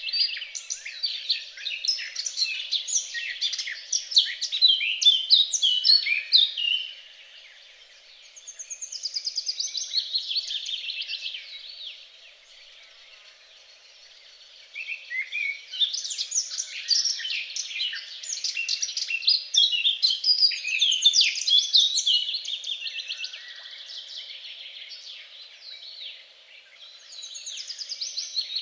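Songbirds singing: dense runs of quick chirps, whistles and rapid trills, broken by two short lulls, one about a quarter of the way through and one near the middle.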